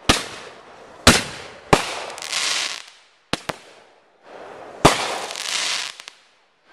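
Consumer aerial fireworks going off: about half a dozen sharp bangs at uneven intervals, most followed by a second or so of hissing crackle as the bursts spread and fall.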